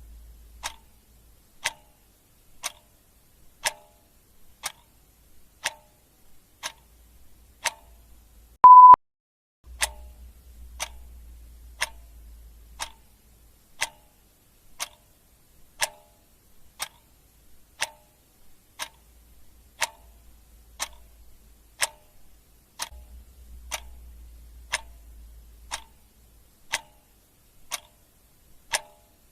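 A clock ticking steadily, about one tick a second. A short, loud, single-pitched electronic beep sounds once about nine seconds in.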